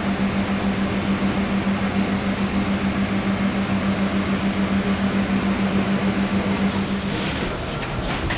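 Steady airliner cabin air-conditioning noise with a low hum that pulses rapidly, the hum stopping about seven seconds in.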